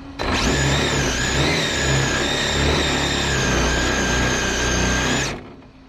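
Losi 22S RC drag car's electric motor and drivetrain running hard at a steady high-pitched whine, with tire and road noise, for about five seconds; it starts abruptly and cuts off near the end.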